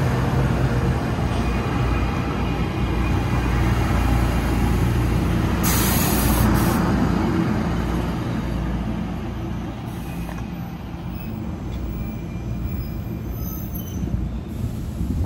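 NJ Transit Arrow III electric multiple-unit railcars rolling along the platform, a steady low rumble of wheels on rail that eases off after about eight seconds. About six seconds in there is a one-second burst of air hiss from the brakes, and faint wheel squeals come near the end.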